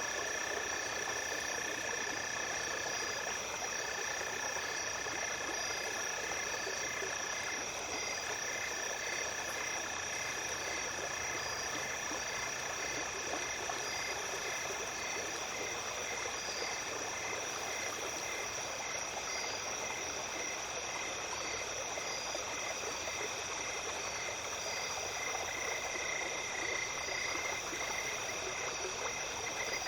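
Night chorus of calling insects over a small stream's running water: several steady high trills layered together, with a pulsing call repeating about twice a second that grows louder near the end, and one lower trill dropping out about halfway.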